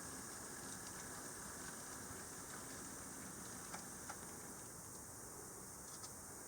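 HO-scale Mikado (2-8-2) model steam locomotive running slowly on its track: a faint steady whir with a few light clicks, three of them between about four and six seconds in.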